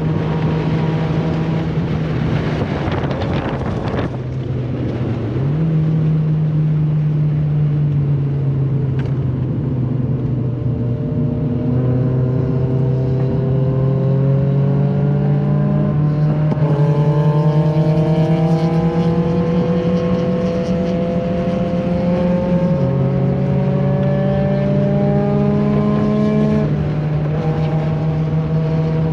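Honda Fit's 1.5-litre four-cylinder engine running hard at track speed through an exhaust with the muffler deleted, heard from inside the cabin. Its pitch climbs slowly and jumps abruptly a few times.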